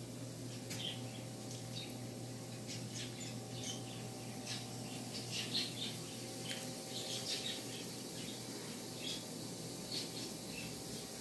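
Small birds chirping and squawking in short, scattered calls over a steady low hum.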